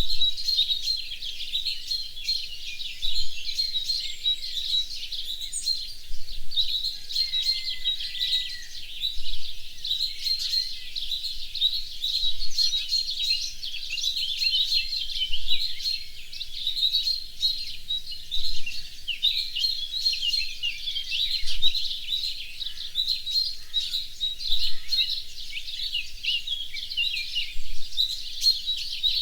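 Dense chorus of many small birds chirping and singing together without pause, a busy overlapping mass of quick high chirps and trills.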